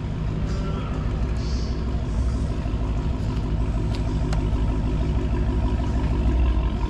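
A car engine running steadily at low revs, a continuous low rumble.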